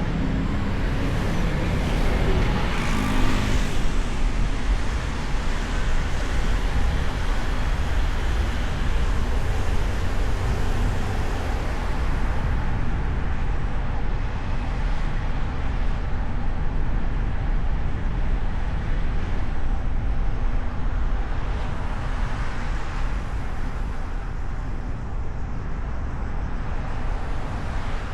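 Car driving through city traffic, heard from a hood-mounted microphone: steady road and engine noise with the sound of surrounding traffic, a little louder in the first few seconds.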